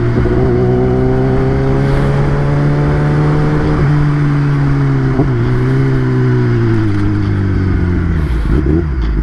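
Kawasaki ZX-10R's inline-four engine running under way, its pitch climbing slowly with two brief dips partway through. It then falls and settles to a steadier, lower note near the end.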